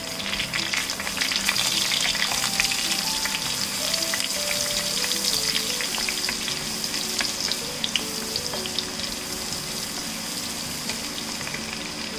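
Whole spices and ginger-garlic paste sizzling and crackling in hot ghee and oil in a stainless steel pan, stirred with a wooden spatula. The sizzle is strongest in the first few seconds and eases a little later.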